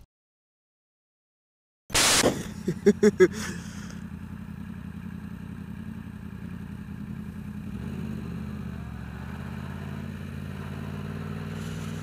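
Motorcycle engine running steadily at low revs. It comes in after about two seconds of silence with a short loud rush of noise, then four quick short blips.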